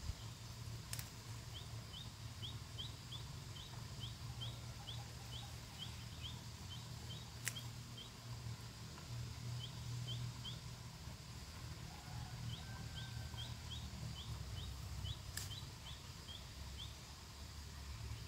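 A small bird chirping, short high notes about three a second in several runs with pauses between them, over a low steady rumble. Three sharp clicks stand out, about a second in, halfway through, and near the end.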